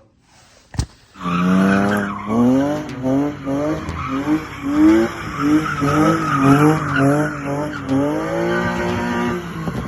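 BMW E36 M3 straight-six engine revved hard while drifting, its pitch rising and falling in quick swings over and over, with tyres squealing underneath. A sharp click comes just before the engine starts in, about a second in.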